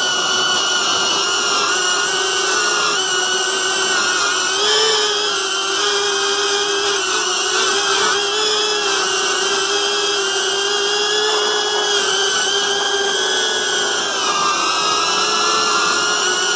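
Cinewhoop FPV drone's brushless motors and ducted propellers whining steadily in flight, the pitch wavering slightly as the throttle shifts.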